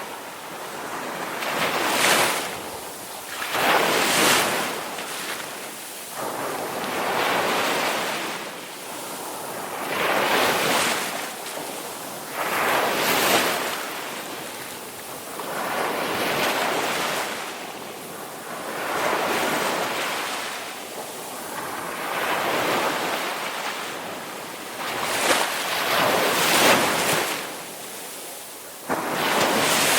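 Ocean surf: waves breaking and washing in, swelling and falling every two to three seconds.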